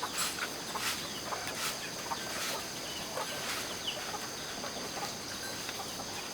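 Chickens clucking: short separate calls scattered throughout, over a steady high-pitched hum.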